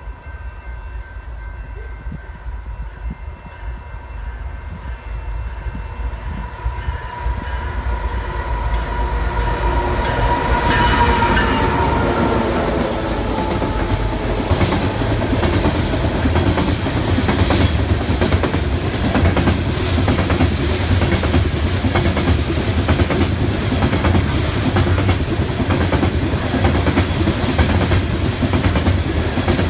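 BNSF freight diesel locomotives approaching with the horn sounding a steady chord that grows louder and drops in pitch as they pass, about twelve seconds in. Then the coal hopper cars roll by with a loud steady rumble and rhythmic clickety-clack of wheels over rail joints.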